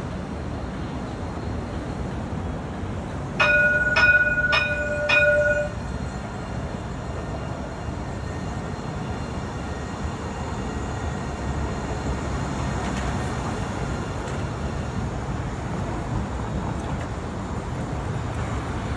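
Dubai tram running with a steady low rumble. A few seconds in, a bell or chime rings four times, about half a second apart.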